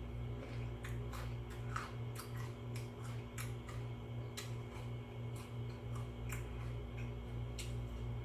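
Close-miked chewing of crisp cucumber: irregular sharp crunchy clicks, two or three a second, over a steady low hum.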